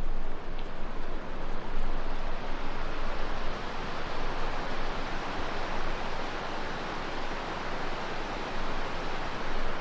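River water rushing steadily, an even hiss without a break.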